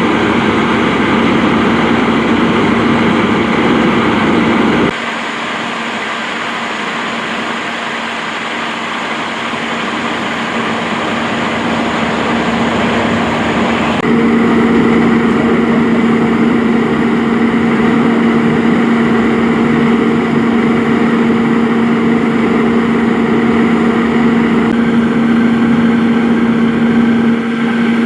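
A heavy vehicle engine idling with a steady hum. The sound changes abruptly about five seconds in, dropping quieter, and again about fourteen seconds in, when the hum comes back stronger.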